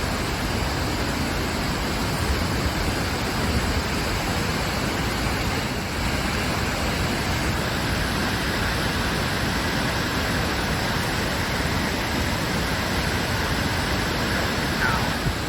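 Floodwater pouring over the top of an overtopped lake dam, a steady, unbroken rush of water.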